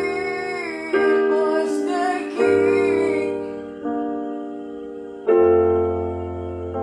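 Music: a woman's singing voice over piano or keyboard chords. The voice stops about halfway through, leaving held chords struck about every one and a half seconds, each fading slowly.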